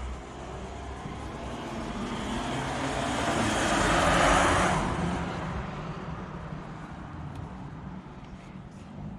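A vehicle passing by: a rushing noise that swells to a peak about four seconds in, then fades away.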